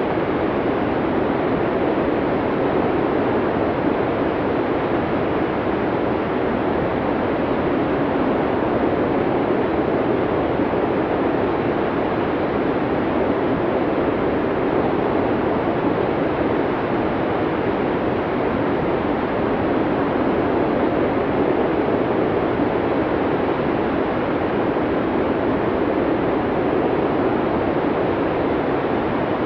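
Blizzard wind blowing steadily, an even rush of noise with no gusts, breaks or separate sounds.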